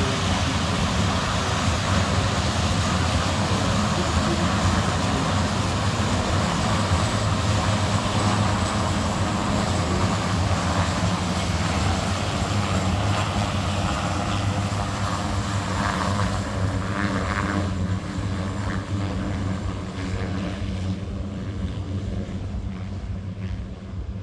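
PZL-130 Orlik turboprop trainers running their engines and propellers with a steady hum, getting quieter over the last few seconds.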